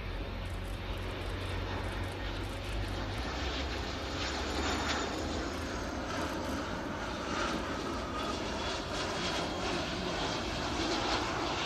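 The two Rolls-Royce RB211 turbofans of a Boeing 757-200 freighter running in flight: a steady jet engine rumble with a thin whine that falls slightly in pitch midway.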